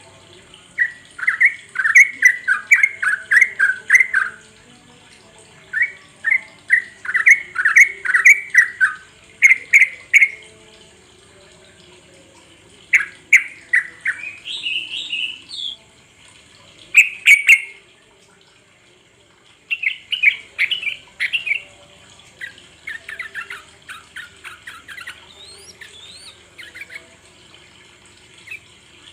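Yellow-vented bulbul (trucuk) singing: a string of short phrases of rapid, chattering notes with pauses of a second or two between them.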